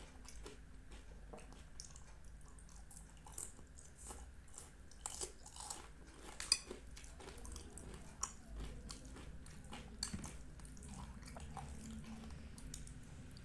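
A person chewing and eating Indian sweets up close, with soft wet mouth sounds and scattered small clicks and smacks, one sharper snap about halfway through.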